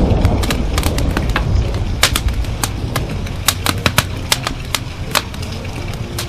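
Wood fire crackling in a fireplace: irregular sharp pops and snaps, several a second, over a low rumble of thunder that fades away during the first few seconds.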